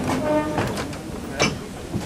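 Narrow-gauge train carriages rolling past on the rails, the wheel clatter fading as the train draws away. A short pitched tone sounds near the start, and a single sharp knock comes about one and a half seconds in.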